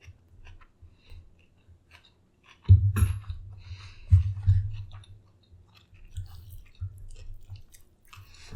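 A person chewing food close to the microphone, with small wet mouth clicks throughout. Heavier low bumps come about three and four seconds in, then a run of softer ones.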